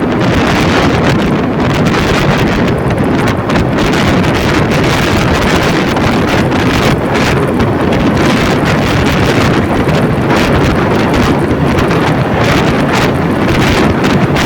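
Loud, steady wind rush on the microphone from a vehicle moving at speed, with no clear engine note over the noise.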